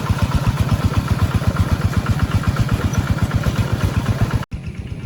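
Tractor engine running with a rapid, even chugging. It cuts off abruptly near the end and gives way to a quieter engine sound.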